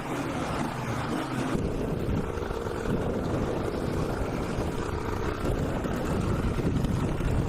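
Honda XR600R's single-cylinder four-stroke engine running while the motorcycle is ridden, with steady wind rush over the helmet microphone.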